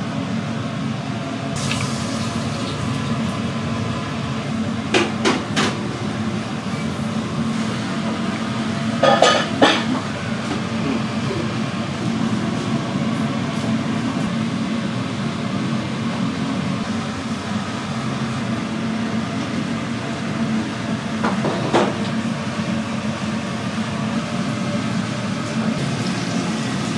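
Steady hum of a restaurant kitchen with a few clinks and clatters of metal pans and utensils, the loudest a cluster about nine seconds in.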